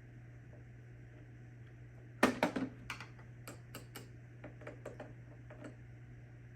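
A quick run of sharp plastic clicks about two seconds in, then scattered lighter clicks and taps for a few seconds, from the Roomba i3's filter and dust bin being handled and fitted. A steady low hum lies underneath.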